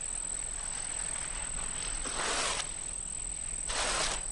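Steady high-pitched insect drone, like crickets, with two short hissing swishes of sliding sand about two seconds in and again near the end.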